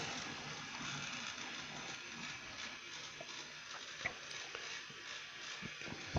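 Battery-powered Fenfa toy locomotive crawling along the track, its small motor and gears running faintly with a few light clicks. It runs slowly because dummy 'zombie' batteries replace some of the cells and cut the voltage.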